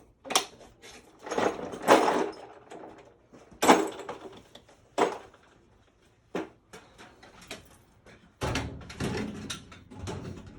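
A series of sharp knocks and clatter from parts and tools being handled, with a scraping stretch about two seconds in and a denser rumbling clatter from about eight seconds in.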